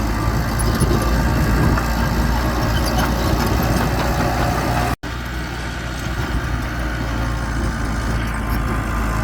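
Diesel engine of heavy earthmoving machinery running steadily at a low, even pace, cut off for an instant about five seconds in before carrying on.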